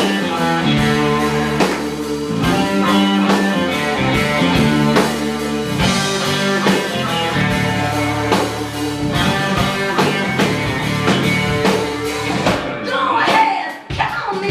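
Live rock band playing the opening of a blues-rock song, with electric guitar and drums. The band drops out briefly near the end and then comes back in.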